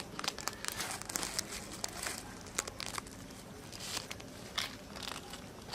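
Crinkling, rustling sound made up of many small, irregular crackles and clicks, busiest in the first few seconds.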